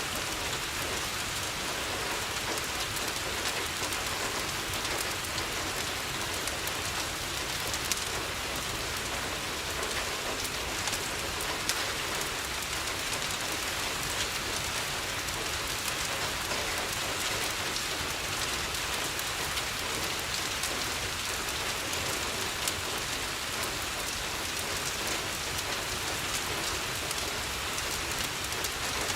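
Steady rain falling on a window, with a few faint, sharp crackles from a fireplace scattered through.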